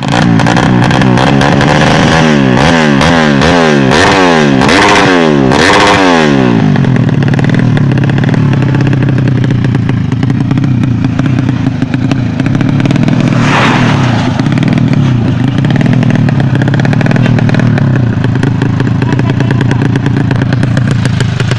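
Motorcycle engine revved in a quick string of blips, its pitch rising and falling several times, then held at a steady run. There is a brief rushing noise about halfway through.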